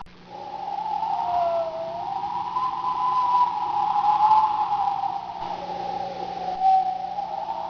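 Storm wind whistling: a wavering tone that slowly glides up and down in pitch.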